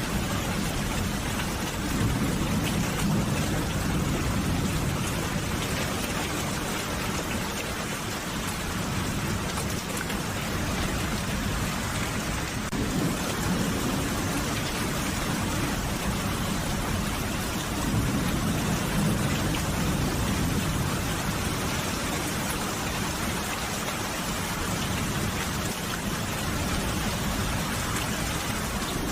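Steady rain falling, an even dense patter, with a low rumble that swells and fades several times.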